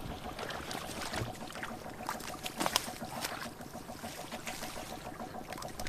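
Water splashing and sloshing in irregular sudden bursts, over a steady, fast pulsing buzz.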